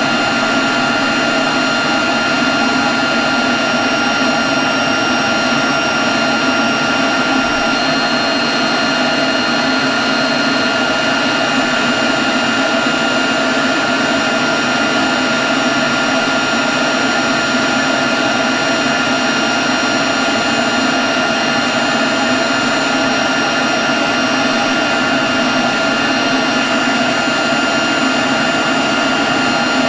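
Leaf blower running steadily at constant speed: a loud rush of air with a high, steady whine over it.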